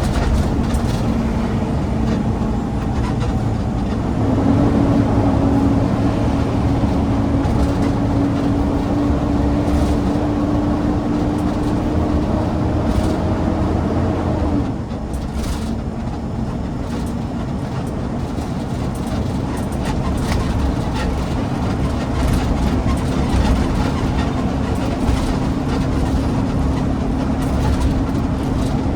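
Garbage truck driving: its heavy diesel engine runs under load with a deep road rumble. The engine note climbs slowly, then drops suddenly about halfway through and later builds again.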